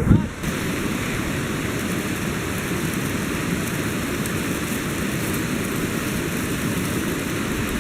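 A short thump right at the start, then a steady, even rushing noise, heaviest in the low range.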